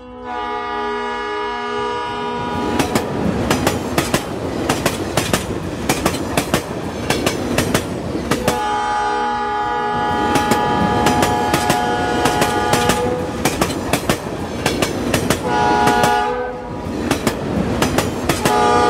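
Train horn sounding a long chord, then a steady clickety-clack of wheels over rail joints as the train runs. The horn sounds again for several seconds a little before halfway, briefly near the end, and once more at the very end.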